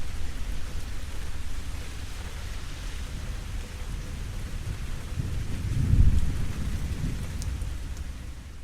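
Steady rain falling, with thunder rumbling low underneath and a louder roll of thunder about six seconds in.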